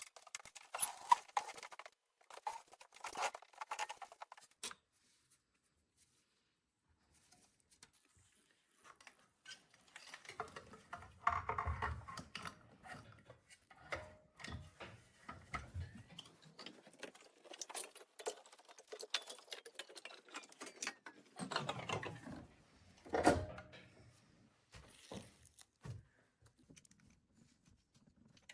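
Scattered clicks, taps and light metallic clinks of tools and parts being handled, with a near-silent pause about five seconds in, a few duller thuds, and a sharp knock about twenty-three seconds in.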